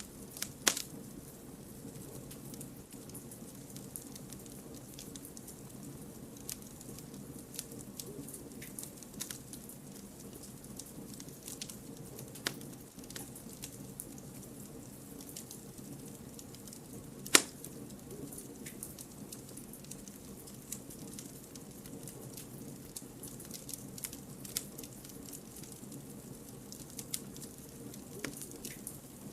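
Campfire of firewood burning with a steady low hiss and scattered crackles and pops, two sharper pops standing out, the loudest about two-thirds of the way through.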